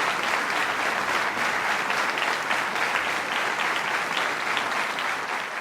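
Audience applauding: dense, steady clapping from a large crowd, beginning to die away near the end.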